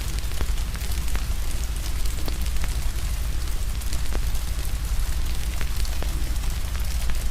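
Wood fire crackling with irregular sharp pops and snaps over a steady hiss of rain and a deep low rumble.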